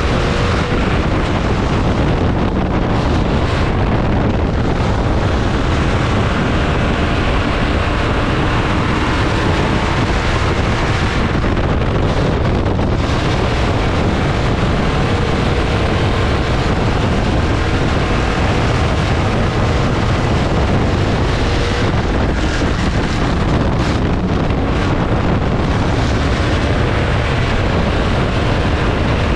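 Dirt-track race cars running on the oval, a loud steady engine noise that holds throughout with small rises and falls, with wind buffeting the microphone.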